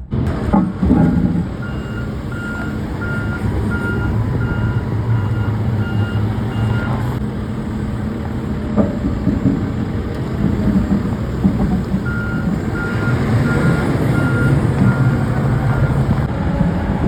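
A vehicle's backup alarm beeping steadily in two runs, the second starting about twelve seconds in, over a running engine's rumble. A loud knock comes right at the start.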